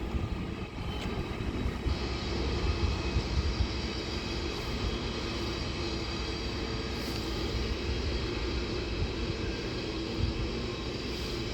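A train running, a steady rumble with faint steady humming tones over it.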